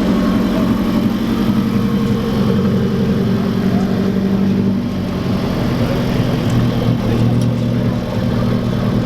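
A car engine running steadily, its note dropping lower about two-thirds of the way through.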